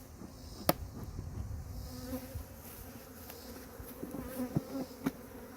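Honeybees buzzing close by, a wavering hum that grows stronger from about two seconds in. A single sharp knock comes just under a second in, and a few lighter knocks near the end.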